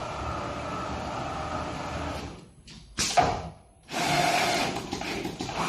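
CNC knife cutting machine running: a steady whirring for about two seconds, a brief pause, a short sharp swish about three seconds in, then steady running again.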